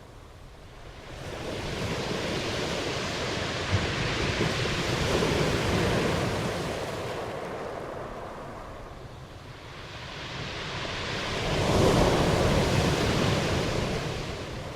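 Ocean waves breaking and washing back in two slow surges, the second one louder, about two-thirds of the way in. A single brief tick sounds about a quarter of the way in.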